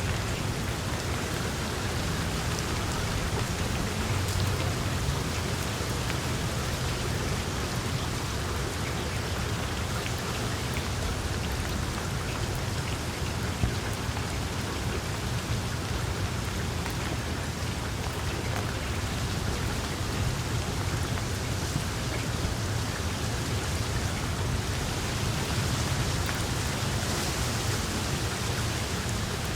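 Small wood fire crackling steadily in a fireplace: a dense patter of little pops and snaps over a low, even rumble of the flames.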